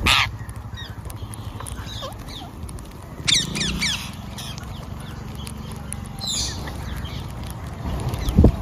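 Parrot squawks: a loud call right at the start, a quick run of harsh high calls about three seconds in, and another call about six seconds in, over a steady low hum.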